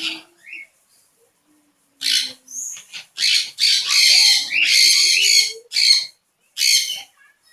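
Parrots screeching: a rapid run of harsh, raspy squawks, about eight in quick succession, starting about two seconds in.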